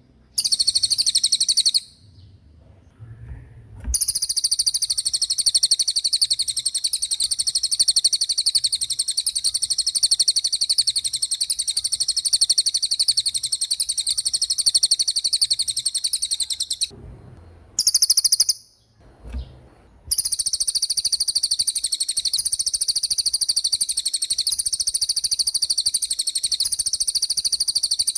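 A caged cililin, a small Indonesian songbird, singing a very high, rapid trilling song in long unbroken rolls, the longest about 13 seconds, with short pauses and one brief burst between them.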